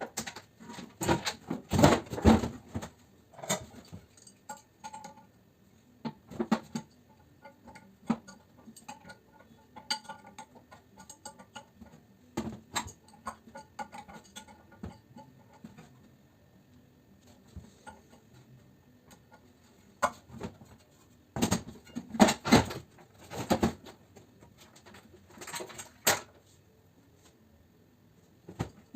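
Metal parts of an air conditioner unit clanking and rattling as it is taken apart for scrap, in irregular bursts of knocks with quieter gaps between.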